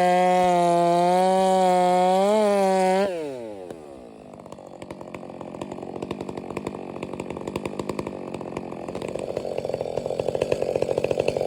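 70cc Stihl chainsaw running at high revs for about three seconds, its pitch wavering slightly. The throttle is then released and the revs fall off quickly. The saw settles into a rapid, pulsing idle that grows louder toward the end.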